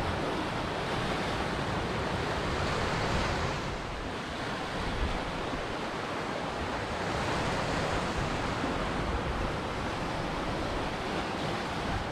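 Ocean surf washing onto a beach: a continuous rush of breaking waves that swells about three seconds in, eases briefly, then builds again near the middle.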